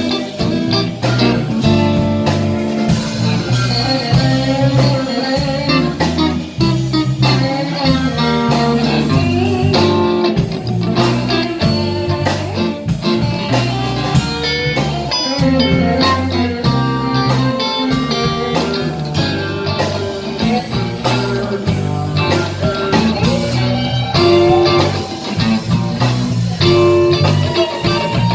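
Live blues band playing an instrumental break, with guitar to the fore over bass and drums.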